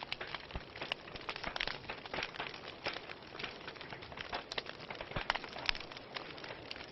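Wood fire burning in a fireplace, with a steady hiss and irregular sharp crackles and pops several times a second.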